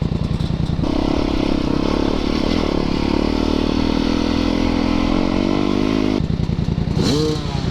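Yamaha YZ450FX dirt bike's single-cylinder four-stroke engine running, pulling under throttle for about five seconds, then dropping back to a lumpy idle about six seconds in.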